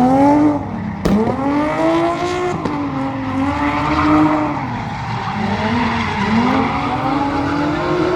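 A drift car's engine revving up and down repeatedly as it slides, with tyres squealing. There is a sharp crack about a second in.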